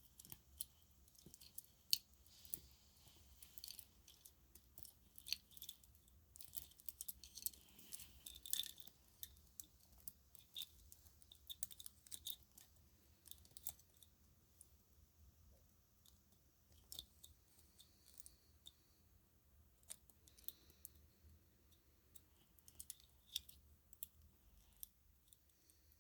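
Faint, irregular small clicks and crackles of handled string lights: plastic bulbs and cord tapping and rubbing against each other, busiest for a few seconds about a quarter of the way in, then sparser.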